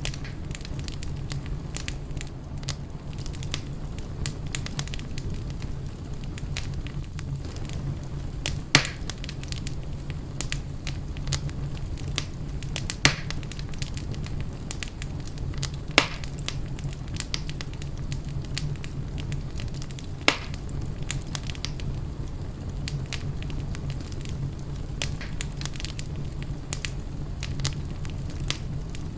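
Wood fire burning in a fireplace, crackling steadily over a low rumble, with four sharper pops from the burning logs.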